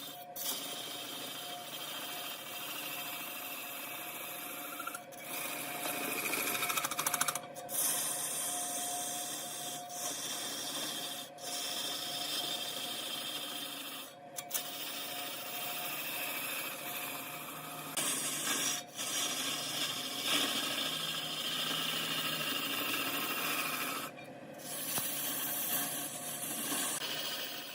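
Large wood lathe running with a turning tool cutting into spinning mahogany: a continuous scraping, rasping cut over a steady machine hum. The sound breaks off briefly several times, as at cuts between shots.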